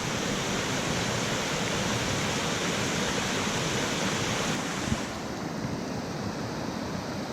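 Waterfall rushing steadily, an even wash of falling water. The higher hiss drops a little about two-thirds of the way through.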